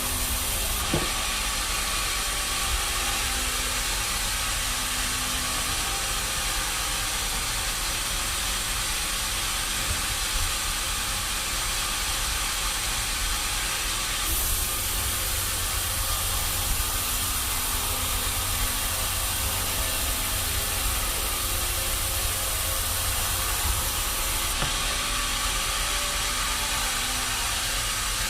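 Steady, loud hissing machine noise with a low rumble, as of sawmill machinery running. The tone shifts abruptly about a second in, again about 14 seconds in, and again about 25 seconds in.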